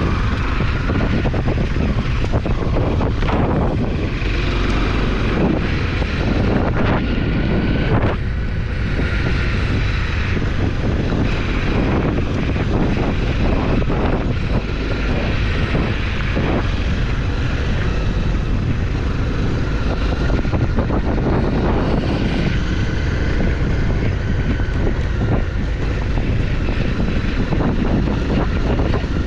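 Off-road motorcycle engine running under way, its pitch rising and falling with the throttle, with wind buffeting the microphone.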